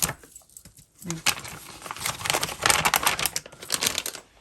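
Crinkly plastic being handled, with a run of short, irregular crackles and rustles.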